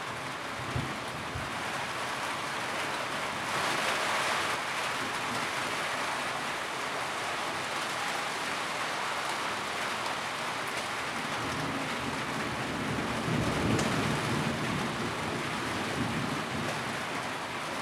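Steady rain drumming on a tin roof, a dense even hiss. The rain swells briefly about four seconds in, a low rumble rises around thirteen seconds in, and a few single drops knock on the metal near the start.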